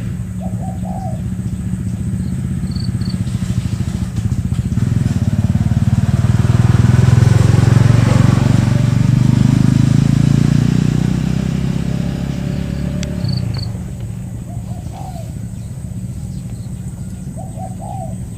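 A motorcycle passes close by: its engine grows louder to a peak about halfway through, then fades away by about thirteen seconds, over a steady low engine hum. Spotted doves coo briefly at the start and again near the end.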